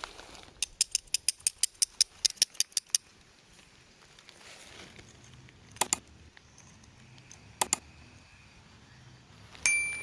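A quick run of sharp clicks, about six a second, then two double clicks, and near the end a hard metallic clink that rings on briefly.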